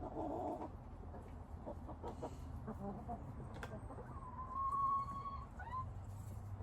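Chickens clucking softly, with one long, even-pitched call lasting about a second that ends in a short rising note, near the middle of the clip.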